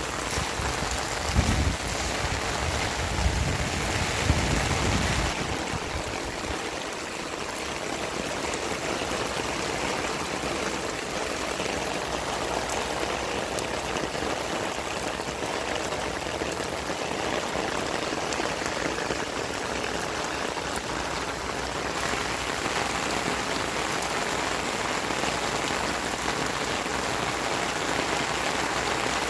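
Heavy rain falling steadily on wet ground and paving, an even hiss of drops throughout. A few low rumbling thumps come in the first five seconds.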